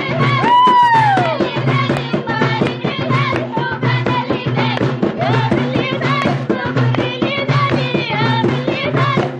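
Jebli folk song from northern Morocco: a voice sings an ornamented melodic line with sliding, falling notes over a fast, steady percussion beat and a sustained low drone.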